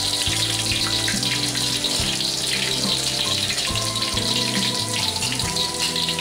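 Hot cooking oil sizzling steadily in a wok, under background music.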